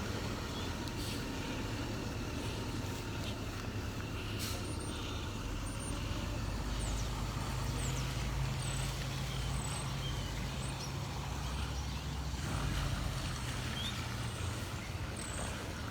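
City street traffic, with a heavy vehicle's engine running steadily at a low hum.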